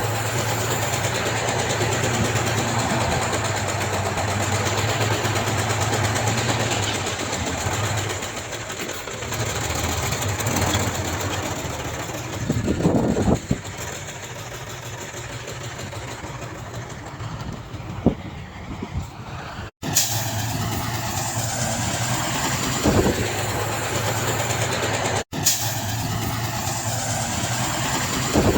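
Diesel engines of heavy earthmoving machinery running steadily. The sound breaks off abruptly twice, about five seconds apart, in the last third.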